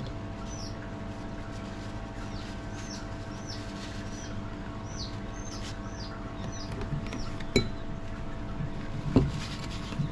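A small bird chirping over and over, with short high notes that drop in pitch, about two a second, over a steady low hum. Two sharp knocks come near the end.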